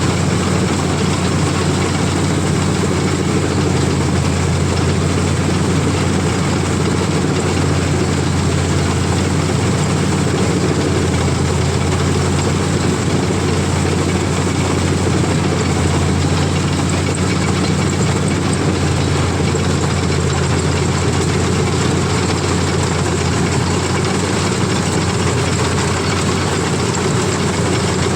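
CLAAS combine harvester running steadily, a constant low heavy-engine drone that does not change in pitch or level.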